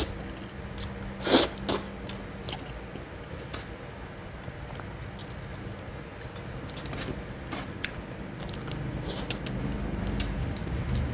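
Close-miked chewing and lip-smacking of a man eating boiled pork leg and rice by hand, with many small wet mouth clicks and one louder mouth sound about a second in.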